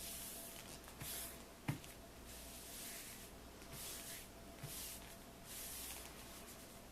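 Paper napkin rustling and crinkling in a series of short bursts as it is folded and creased by hand, with one light knock a little under two seconds in.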